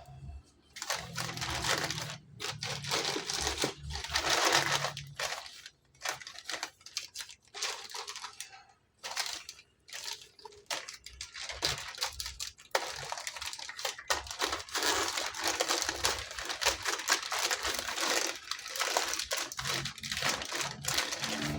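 Packaging crinkling, rustling and tearing in irregular bursts as a box of miniatures is unpacked by hand.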